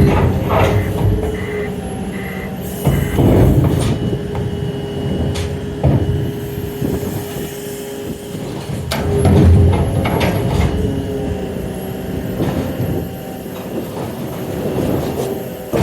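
A train running on rails: a steady engine tone, with low rumbles that swell and fade several times and a few sharp clicks.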